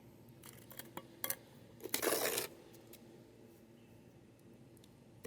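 Hand tools being handled: a few light clinks and knocks, then a short scraping rustle about two seconds in, and one sharp click at the end.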